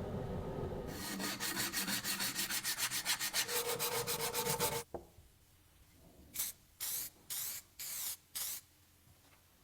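Hand sanding: rapid back-and-forth rubbing strokes, about eight a second, stopping abruptly about five seconds in. Five short scrubbing bursts follow.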